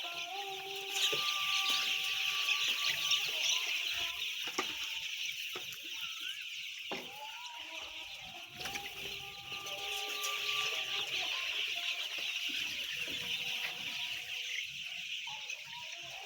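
A large flock of chicks peeping all at once, a dense, continuous high-pitched chorus.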